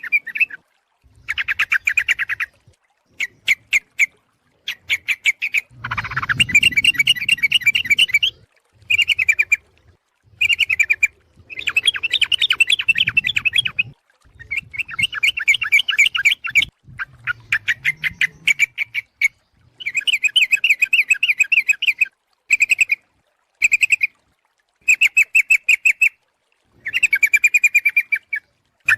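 Trucuk (yellow-vented bulbul) calls played as a trapping lure: a dozen or so bursts of rapid, chattering notes, each from half a second to two seconds long, with short gaps between. The call is offered as a female calling a male.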